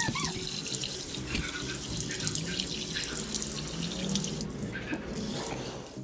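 Running water splashing over a motorcycle chain, rinsing off homemade degreaser.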